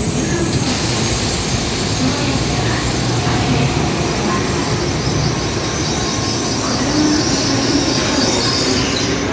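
N700S Shinkansen train rolling along a station track: a steady rumble of wheels on rails under a high hiss.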